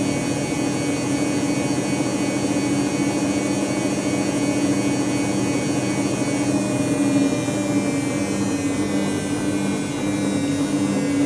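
Dyson Contrarotator CR01 washing machine spinning near the end of its cycle: a steady motor hum with a whine, whose higher tones drift slightly down in pitch in the second half.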